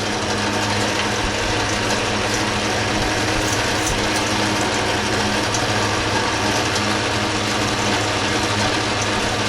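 Gear-driven metal lathe running steadily, its gears whirring over a low hum, while it turns a round metal slug.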